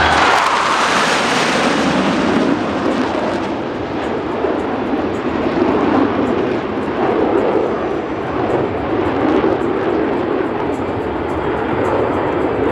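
Jet noise from Blue Angels F/A-18 Super Hornets flying past: a loud hiss over the first couple of seconds, easing into a steady rumble.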